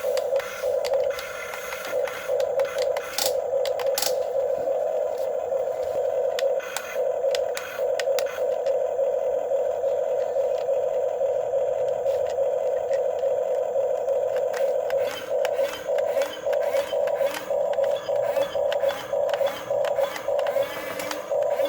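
Electric motors of a Huina 1550 RC excavator whining steadily as it digs and loads sand, breaking into short start-stop pulses in the later part, with scattered clicks and scraping of the bucket in sand.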